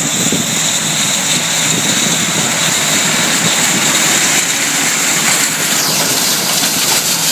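Tractors and seed drills running steadily, with a steady high whine over the engine noise. About six seconds in, a high tone slides down in pitch.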